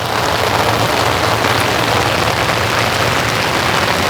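Steady summer rain falling, a dense even hiss of drops.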